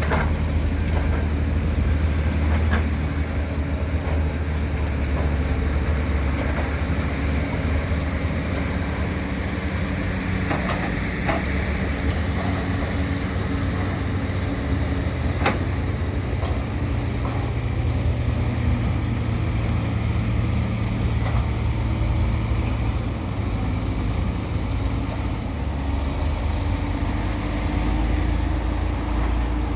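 Heavy diesel earthmoving machinery, an excavator, running steadily with a deep engine drone. A high whine rises over it from about six seconds in and fades out near eighteen seconds, with a few scattered knocks.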